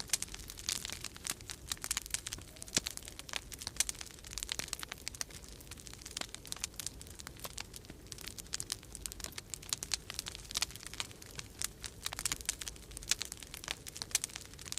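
Wood fire crackling in a fireplace, with a dense, irregular run of sharp pops and snaps. A low, steady rumble of winter storm wind sits underneath.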